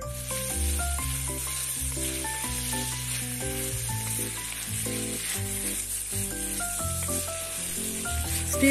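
Sliced carrots, green beans, onions and green chilies sizzling in hot oil in an enamelled pan while being stirred with a wooden spatula, with background music of short melodic notes playing over it.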